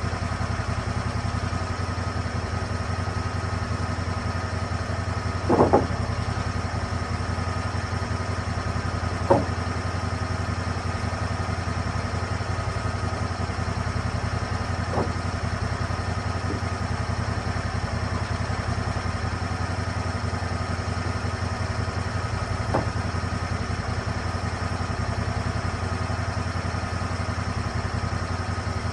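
Gasoline engine of a Lucas Mill 10-30 swing-blade sawmill running steadily. A few sharp knocks are heard over it, the loudest about five seconds in and fainter ones roughly every few seconds after.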